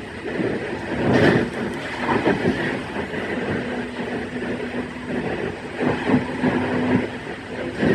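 E131 series electric train running along the line, its wheels clattering irregularly on the rails over a steady running noise, with a steady low hum in the middle of the stretch.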